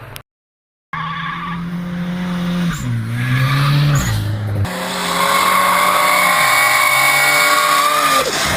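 Car engine held at high revs with tyres squealing, as in a drift. The engine note steps up and down a few times, then from about halfway through a loud tyre squeal joins it and carries on until near the end.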